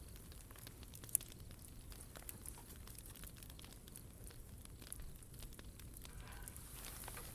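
Wood bonfire crackling quietly, with scattered small pops and one sharp pop about a second in.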